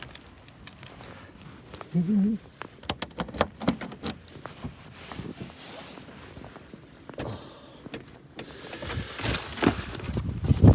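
A windshield cover being handled and fitted on a car: a run of sharp clicks and knocks, then rustling swishes, the loudest near the end.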